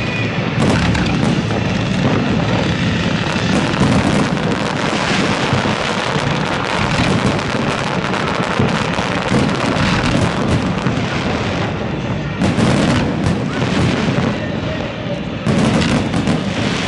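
Aerial fireworks bursting in a dense barrage, many booms and crackles overlapping into a near-continuous rumble, with fresh sharp volleys about twelve and a half and fifteen and a half seconds in.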